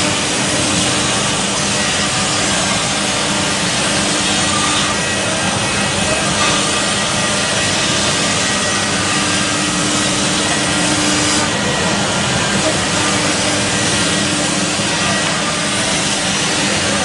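CNC wood router machining wood: a steady cutting noise with a faint intermittent hum.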